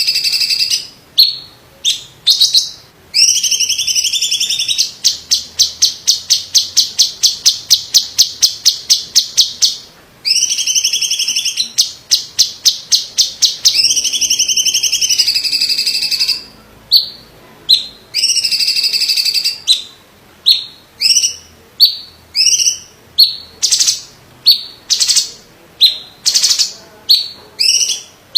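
A cucak cungkok leafbird singing loudly in full, varied song. Ringing whistled phrases that swoop down and up give way to a long, fast trill of repeated notes from about five to ten seconds in. More swooping phrases follow, then a string of short, sharp notes about two a second near the end.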